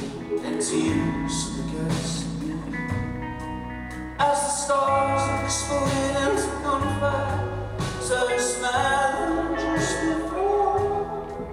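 Live rock band playing a slow song, with drums and cymbals under a sung or lead melody line.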